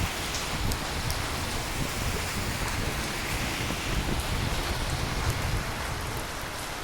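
Steady rain falling on hard surfaces, an even hiss with scattered droplet ticks.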